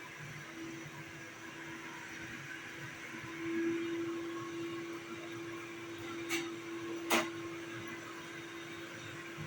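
Vacuum cleaner running steadily with a constant humming tone, with two short sharp clicks about six and seven seconds in.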